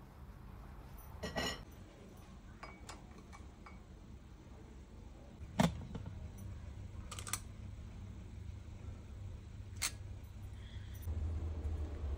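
Kitchen handling sounds: a few scattered clicks and knocks of utensils and dishes, the loudest a little before halfway, over a low steady hum that grows louder near the end.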